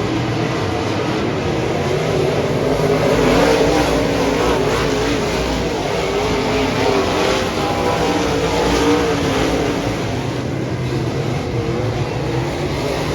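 Dirt modified race car engine running hard under racing, its pitch rising and falling over and over.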